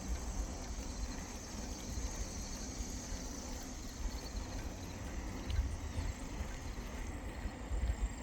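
Wind rumbling on the microphone of a moving bicycle, with the faint noise of the ride along a paved trail.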